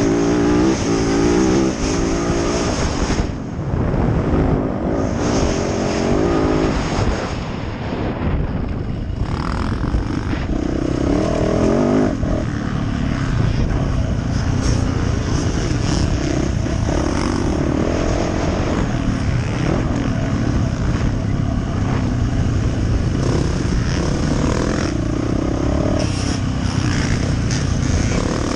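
Yamaha YZ450F four-stroke single-cylinder dirt bike engine revving hard and backing off over and over as it is ridden around a motocross track, with rushing wind noise. The engine briefly drops off the throttle a few seconds in and again about eight seconds in.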